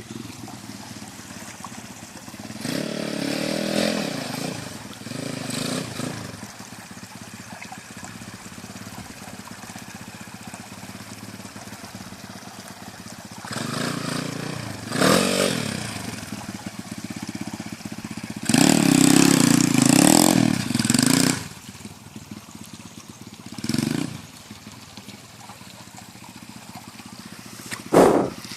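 Pit bike engine revving in repeated bursts as it is ridden, with quieter running between. The longest and loudest burst lasts about three seconds, a little past the middle.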